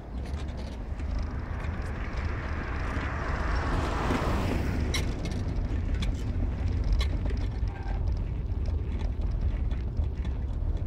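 A vehicle on the move: a steady low road-and-engine rumble, with a rushing noise that swells and fades about four seconds in, and a few light clicks.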